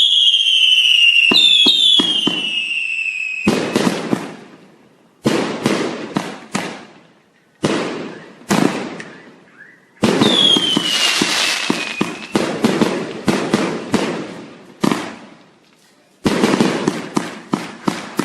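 Fireworks going off in several volleys of rapid crackling bangs, each dying away before the next. Falling whistles, typical of whistling fireworks, sound near the start and again about ten seconds in.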